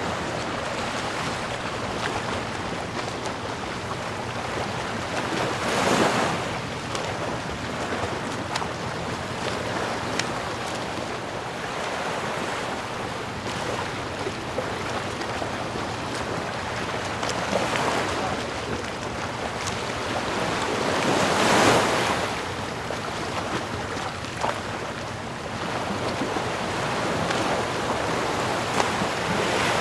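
Ocean waves washing onto a shore in a steady hiss of surf, with a louder wave breaking about six seconds in and a bigger one a little past the middle, plus some wind.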